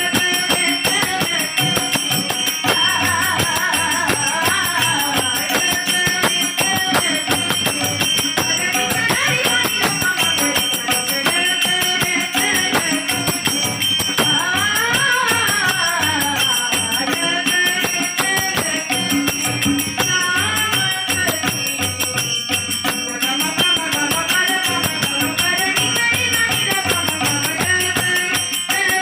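Young girls singing a devotional bhajan melody, accompanied by jingling hand percussion and a drum keeping a steady beat.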